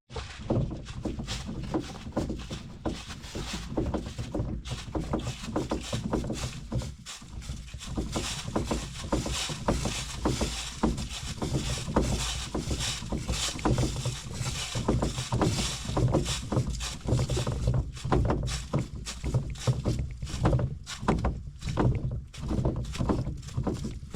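Steady footsteps on a forest portage trail, with gear and brush rustling, as a solo canoeist carries his canoe and pack between lakes.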